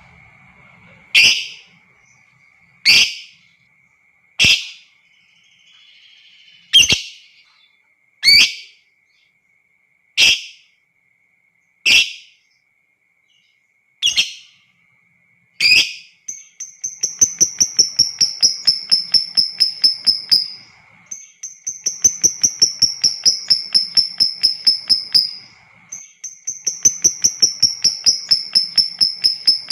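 Lovebird calling: single sharp chirps about every one and a half to two seconds, then, from about halfway in, three long rapid chattering trills of about four seconds each. This is the long 'ngekek' chatter of a lovebird in full song, the kind of call used as a lure to set other lovebirds singing.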